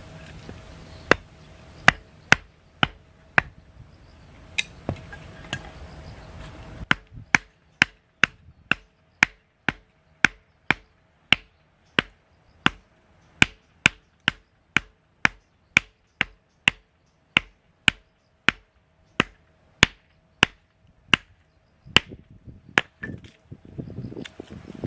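Regular chopping blows, a little under two a second, typical of a hatchet splitting firewood for a campfire.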